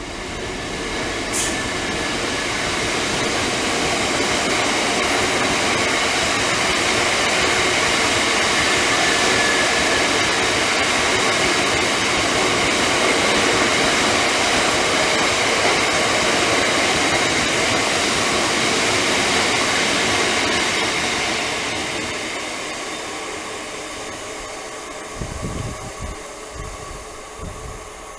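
A train passing through a station: a steady rail rumble with a faint whine that builds over the first couple of seconds, holds, then fades away after about twenty seconds. A few dull low thumps near the end.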